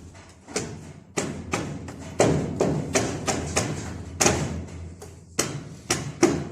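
A series of knocks, about two or three a second and uneven in strength, each with a short ringing tail, as from a hammer striking metal engine parts.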